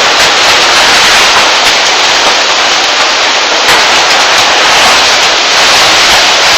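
Heavy monsoon rain pouring down, a loud, steady downpour.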